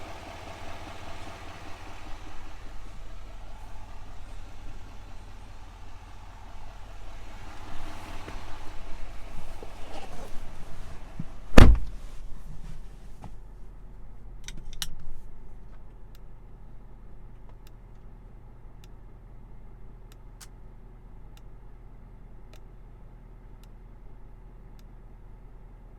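A heavy-duty pickup's 6.6-litre turbodiesel V8 runs with a steady low hum. About halfway through, a single loud thud, like a door shutting, cuts through. After it, a faint regular ticking about once a second carries on over the hum.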